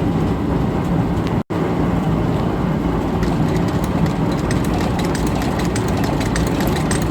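Antique Champion upright leather sewing machine running off a gas-engine-driven line shaft: a steady engine drone, with rapid, even ticking from about three seconds in. The sound cuts out for an instant about a second and a half in.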